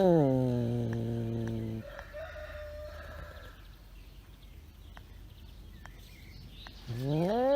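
Rooster crowing: the end of one long crow drops in pitch and cuts off about two seconds in, and after a quieter gap a second crow starts, rising, near the end.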